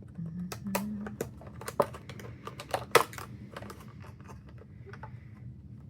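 Hands handling a boxed CD album: irregular light clicks and taps of fingers on its packaging, the sharpest about three seconds in.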